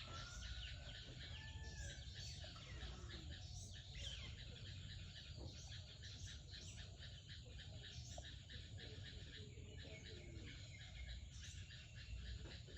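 Wild birds chirping with many short, rapid chirps, and a few gliding whistled calls in the first couple of seconds, over a faint low rumble.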